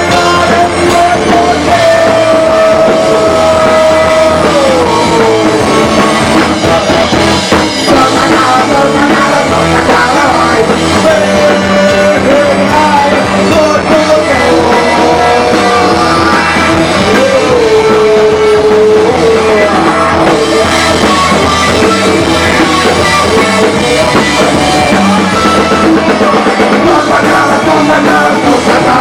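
Rock band playing live and loud: drum kit, bass and electric guitar under a long, held lead melody line that slides down in pitch every few seconds.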